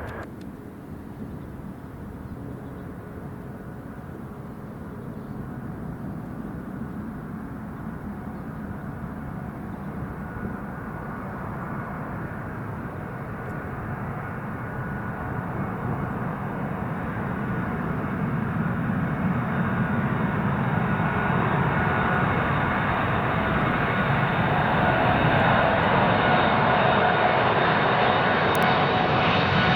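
Boeing 747's four jet engines on approach, a drone growing steadily louder as the jumbo jet closes in, with a steady engine whine strengthening toward the end.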